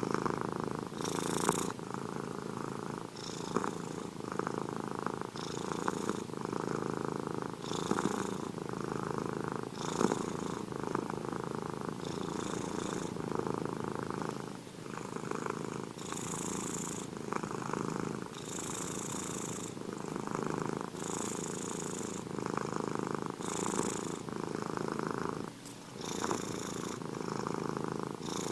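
Domestic cat purring continuously, with a rhythmic rise and fall about every two seconds.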